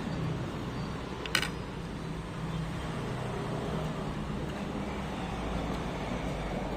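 Steady low rumble of road traffic, with one sharp click about a second and a half in.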